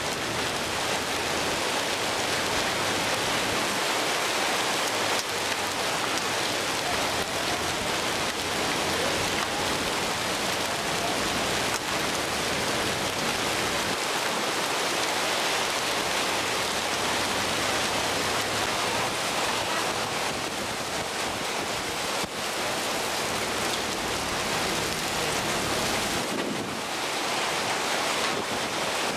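Steady downpour of hail, about half an inch across, with rain, pelting a car in a dense, even clatter and hiss.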